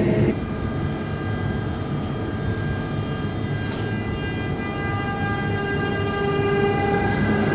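Electric train in a station, running with a steady whine of several held tones from its traction equipment over a rumble. A brief high squeal sounds between two and three seconds in.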